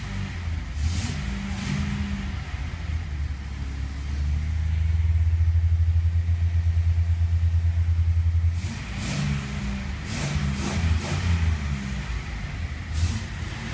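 Datsun 240Z's 2.4-litre inline-six engine running, which the owner says is running rich. About four seconds in it is brought up to a higher speed and held steady for about four seconds, then drops back to an uneven, lower run.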